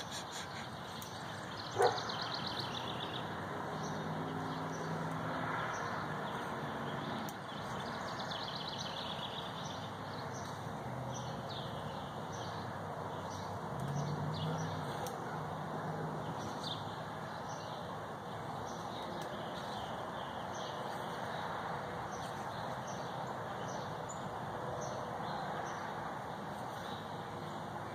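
Outdoor ambience with small birds chirping repeatedly in the background over a steady hiss, a sharp click about two seconds in, and a low drone that swells and fades twice.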